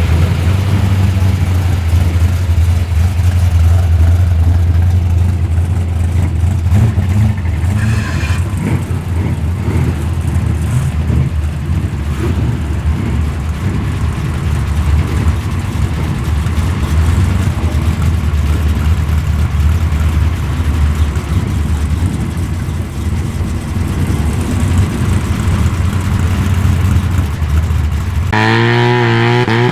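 Modified muscle car engine idling with a heavy, steady low rumble. About 28 seconds in, an engine revs up sharply, rising in pitch.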